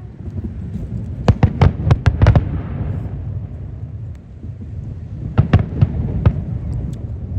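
Fireworks display: a quick cluster of sharp bangs between about one and two and a half seconds in, then another cluster around five to six seconds, over a continuous low rumble of further bursts.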